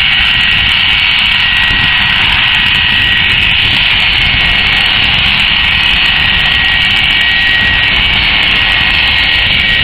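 Jet engines of an Airbus A330-300, Rolls-Royce Trent 700s, running loud and steady: an even rush with a constant high whine, no change in level.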